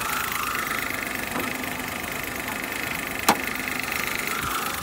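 Daewoo Matiz Joy's three-cylinder petrol engine idling steadily with a faint high whine over it. A single short click comes about three seconds in.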